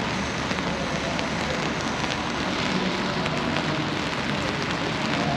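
Steady rain falling on wet pavement: an even hiss with faint ticks of drops.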